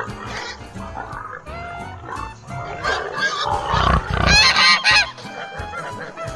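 Repeated honking bird calls, loudest about four to five seconds in, over background music.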